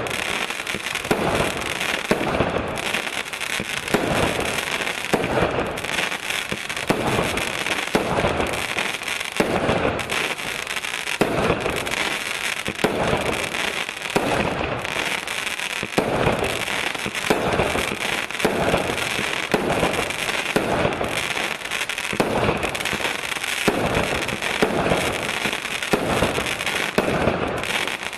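A 36-shot vertical fireworks cake (Golden Fireworks 'Color Rain') firing its tubes one after another, about one shot a second, with a steady crackling hiss between the shots.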